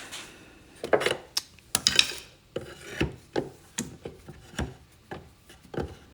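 Small wooden spacer blocks and hand tools being handled and set on wood: irregular knocks and clicks with short scrapes and rubbing between them.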